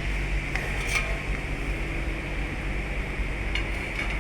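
Steady low mechanical hum from running machinery, with a few faint metallic clicks of hand tools.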